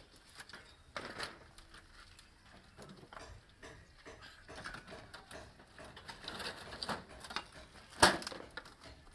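Irregular knocking and clattering, like hard materials being handled, with one sharp loud knock near the end.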